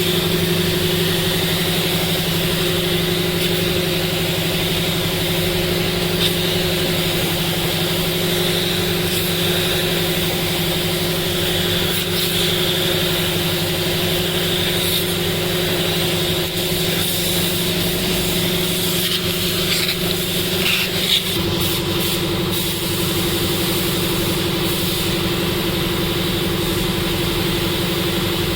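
A motor running steadily with a hum and a high hiss, its pitch stepping slightly lower about two-thirds of the way through.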